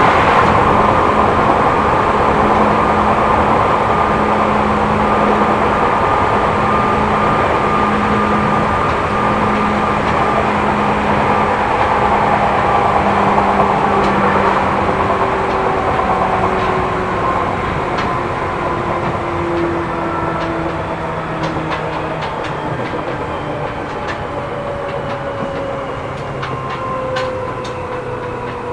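Seibu New 2000 series electric train heard from inside the car, running with its traction motor tones sliding slowly down in pitch as the train slows. The overall sound eases off gradually, with a few light clicks near the end.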